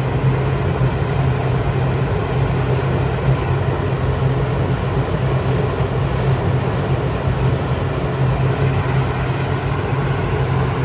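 Poultry-house space heater running: a steady, unchanging hum with a strong low drone under an even rushing noise.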